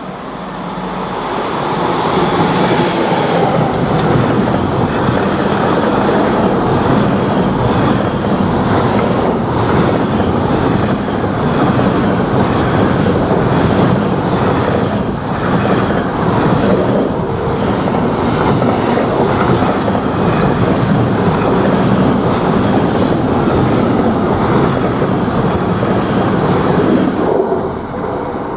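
Container freight train hauled by a class 386 electric locomotive passing close by, its wagons' wheels clattering steadily over the rails. The sound swells within the first couple of seconds and drops off sharply near the end as the last wagon goes by.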